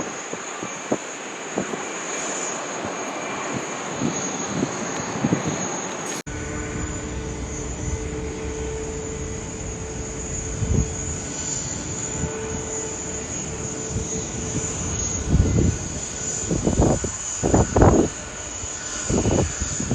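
Jet airliner engines running at a distance: a steady rushing noise, then, after an abrupt cut about six seconds in, a low rumble with a steady hum that swells loudly a few times near the end.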